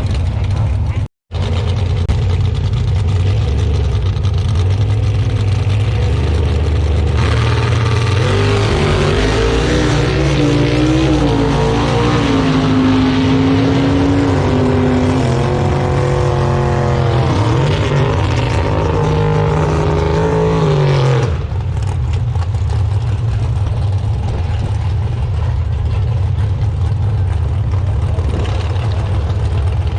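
Car engines running loudly and steadily. About seven seconds in, an engine revs with its pitch rising and falling, and that stops abruptly around twenty-one seconds in.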